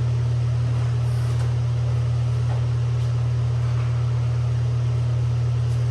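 Steady low machine hum with no change in pitch or level, with a few faint clicks on top.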